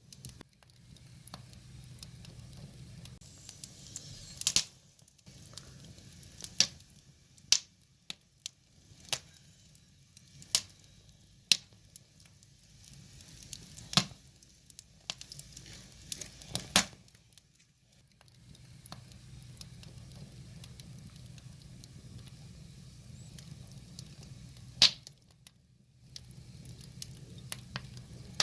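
Wood fire crackling, with sharp irregular pops and snaps from the burning logs over a low steady hiss and rumble of the flames.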